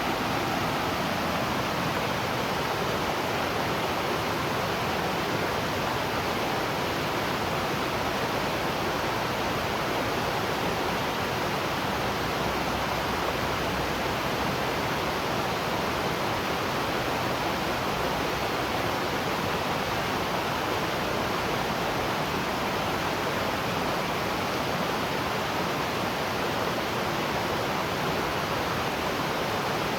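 Waterfall: falling water making a steady, unbroken rushing.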